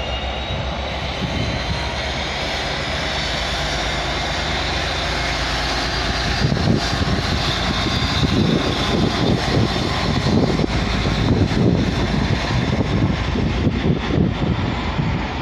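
Class 57 diesel-electric locomotive 57305 passing: a loud, steady engine noise with a faint high whine. From about six seconds in it turns rougher and rumbles lower.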